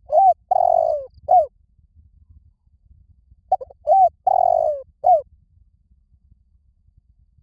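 Spotted dove cooing its territorial call, used as a lure for wild doves: two phrases about three seconds apart. Each phrase has a couple of short coos, one longer coo and a closing note.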